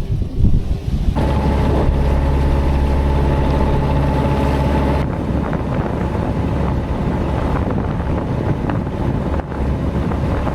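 Boat engine running at a steady pitch, starting abruptly about a second in and cutting off after about four seconds. A rushing noise follows.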